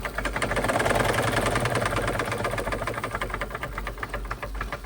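Wilesco D32 model steam engine running under steam, its exhaust beating in a fast, even rhythm, with a louder hiss over roughly the first two seconds. It runs without rattles.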